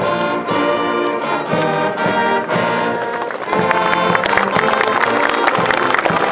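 Military brass band playing, held chords changing about every half second. About halfway through, a dense crackle of many sharp clicks joins the music.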